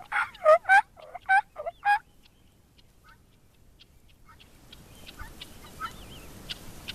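Guinea fowl calling: a quick run of about seven loud calls in the first two seconds, then fainter scattered bird calls.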